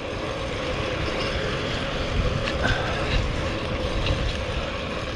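Steady wind rush and low rumble on a GoPro's microphone while riding a bike, with road noise underneath.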